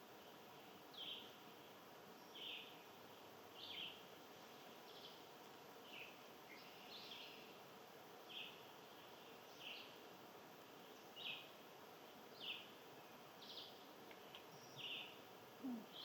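A bird giving short single chirps, repeated about once every second or so, over faint steady outdoor hiss.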